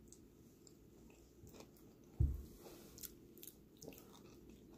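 Faint chewing of a homemade frozen Nutella chocolate with bits of cereal in it, with small clicks throughout and one dull thump about two seconds in.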